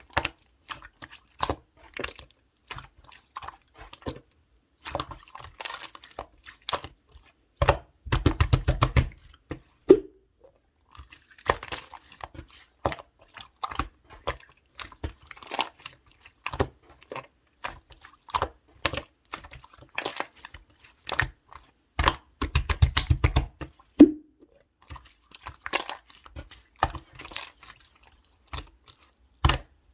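Clear slime being worked by hand, making wet clicks and pops as it is pressed and folded. Twice, about a quarter and about three quarters of the way in, it gives a quick run of rapid popping clicks.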